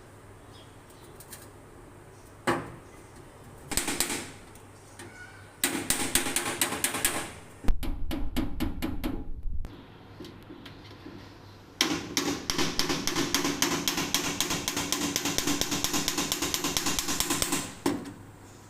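Tin oil cans being hammered: a couple of single knocks, then two long runs of fast, light metallic blows.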